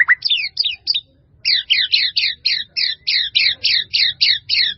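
White-rumped shama (murai batu) song: a few quick notes, a short pause about a second in, then a fast run of repeated downslurred whistled notes at about five a second.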